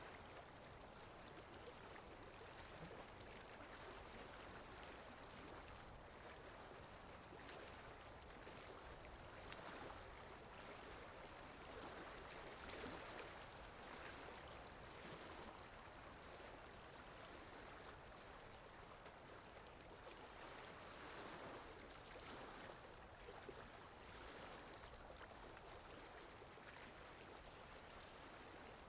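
Faint steady rain, an even hiss of falling drops with small swells.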